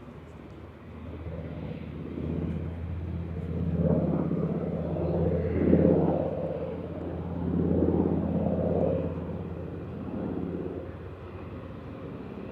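Piston-engined propeller airplane passing, its engine drone swelling up to a peak in the middle with pulsing surges, then fading away.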